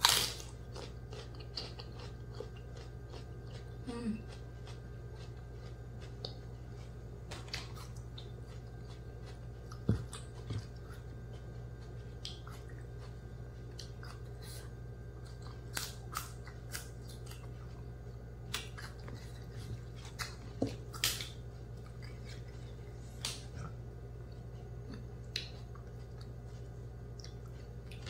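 Close-miked chewing and biting of raw leafy greens: scattered crisp crunches and wet mouth clicks, over a steady low hum.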